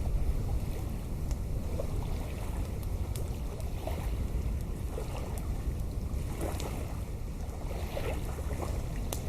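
Wind buffeting the microphone in a steady low rumble, with scattered faint crackles from a burning campfire.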